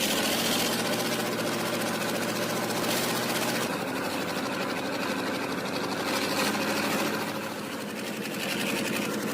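Diesel engine of an MT-LB armoured tracked vehicle running steadily under load, with a fast, even clatter.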